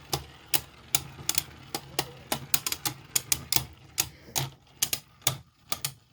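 A 3D-printed Beyblade and its opponent spinning in a plastic stadium and clashing: a run of sharp, irregular clacks, a few each second, over a faint low whir. The hits thin out near the end.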